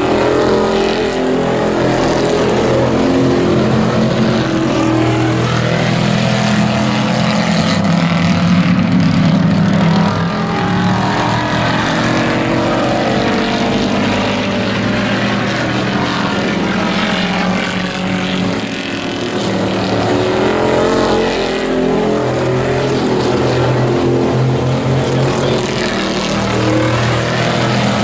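Several hobby-class race trucks running laps on an oval track, their engines revving up and down as they race.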